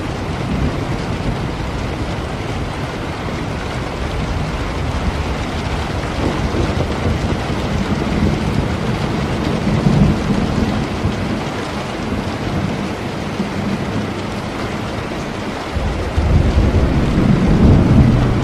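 Steady rain falling with low, rolling thunder. The rumble swells about halfway through and again, louder, near the end.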